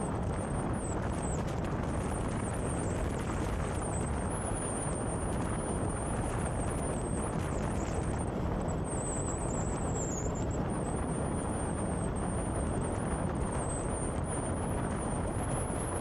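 Steady wind and road noise of a motorcycle ride, with a faint high whine that wavers in pitch.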